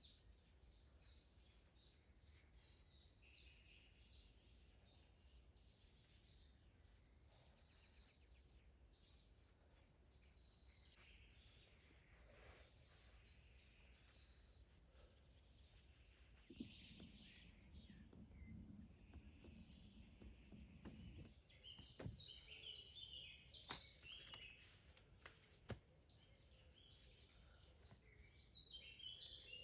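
Faint birdsong: many short, high chirps and calls from small birds, with a few sharp clicks in the second half.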